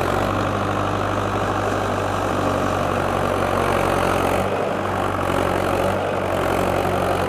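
Tractor engine idling steadily, a constant low drone.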